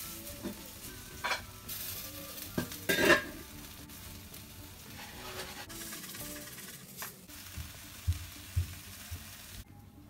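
Sweet potato slices sizzling in a stainless steel Saladmaster skillet, with metal tongs clicking and scraping against the pan as the slices are turned. The loudest clatter comes about three seconds in.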